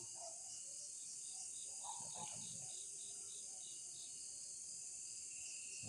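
Night insects chirring steadily in a high, even band, with a run of quick chirps at about five a second from about one to four seconds in. A faint low murmur about two seconds in.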